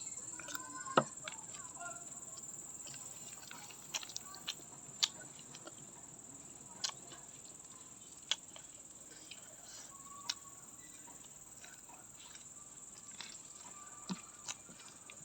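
Steady high-pitched chirring of crickets, with a sharp click or crunch every second or two.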